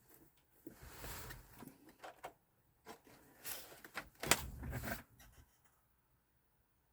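Handling noises: a scatter of light clicks, knocks and rustles as objects are moved about, the sharpest a little past four seconds in.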